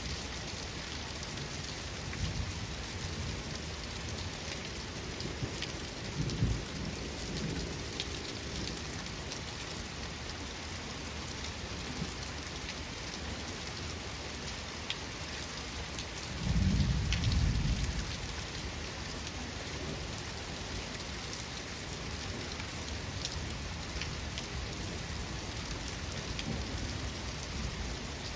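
Steady rain falling on a surface, with low thunder rumbling: a short rumble about six seconds in and a louder, longer one a little past the middle.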